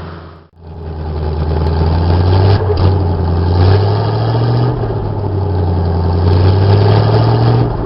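1976 GMC C6000 grain truck's 350 V8 engine running steadily after a cold start, its note swelling a little now and then. The sound drops out briefly about half a second in.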